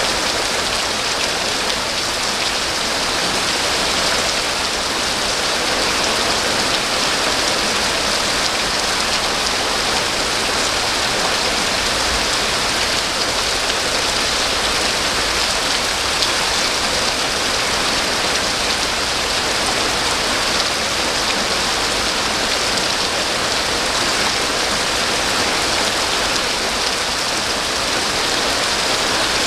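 Steady rain falling, an even hiss of many drops with no let-up or thunder.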